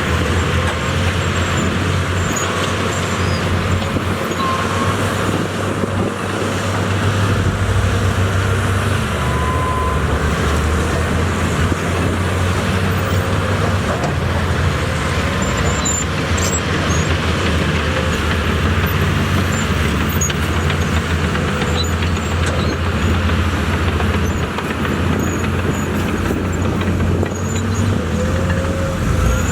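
Diesel engine of heavy earthmoving machinery running steadily under work, a continuous low drone with mechanical clatter over it.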